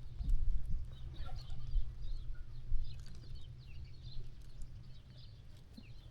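Farmyard ambience: scattered faint calls of chickens, over a steady low rumble that swells near the start and again a little under three seconds in.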